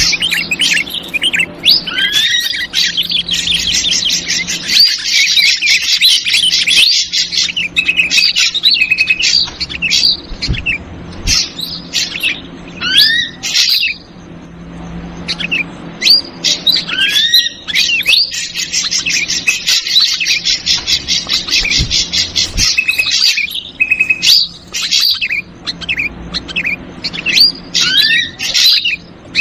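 Ashy drongo lure recording mixed with agitated yellow-vented bulbul chatter: a dense, busy stream of rapid chirps, repeated notes and short rising whistles, with a brief lull about halfway through. The same passage comes round again, as in a looped call track.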